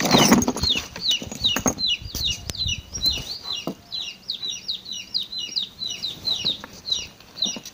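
Small birds chirping steadily in the background: quick, high, downward-sliding chirps, several a second. Some rustling and a few sharp knocks in the first few seconds.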